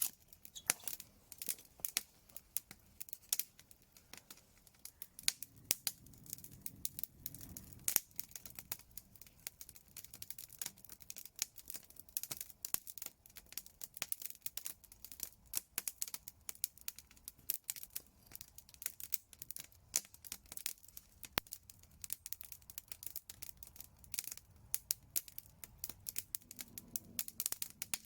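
Wood fire crackling: a dense, irregular run of sharp pops and ticks.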